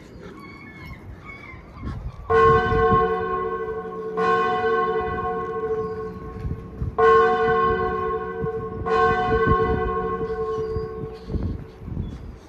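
A bell struck four times, in two pairs a couple of seconds apart, each stroke on the same note and ringing on as it slowly fades.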